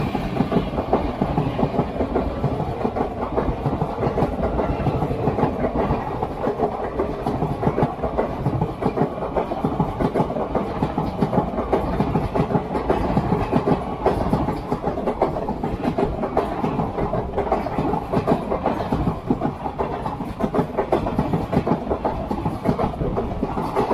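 Passenger train running along the track, its wheels rumbling and clacking steadily over the rails.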